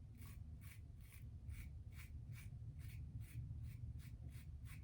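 Vintage Gillette Tech safety razor with a 3D-printed base plate scraping through stubble in quick, short, even strokes, about four a second.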